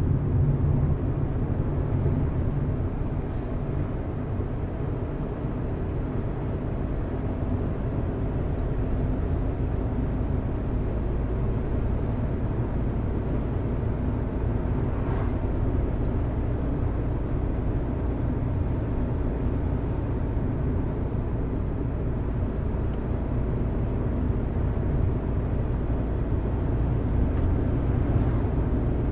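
Car driving at a steady pace: a low, even rumble of engine and tyre noise on the road.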